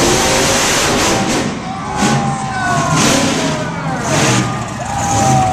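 Monster truck engine revving hard, its pitch rising and falling again and again with repeated loud surges as the driver works the throttle.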